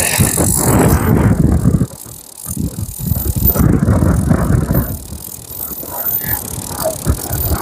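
Strong gusty wind buffeting the microphone: a loud, uneven rumbling that drops back briefly about two seconds in and again near the middle before swelling once more.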